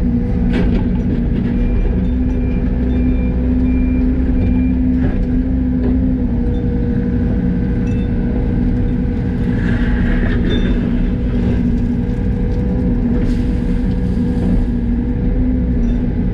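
Yanmar ViO80 excavator's diesel engine running steadily under hydraulic load while digging, with a few short knocks.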